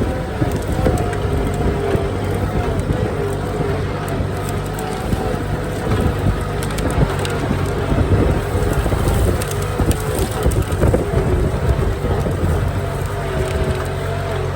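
Kubota M7040 tractor's diesel engine running steadily under load while plowing hard ground, with continuous rattling and clatter from the tractor and implement.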